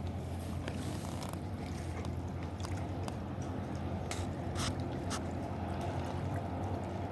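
Steady low drone of a river towboat's engine as it pushes a barge past, with a few short sharp clicks around the middle.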